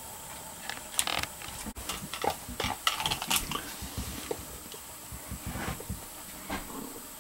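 Bolt-action rifle being handled on the bench: a run of metallic clicks, scrapes and knocks, thickest in the first half, then thinning out.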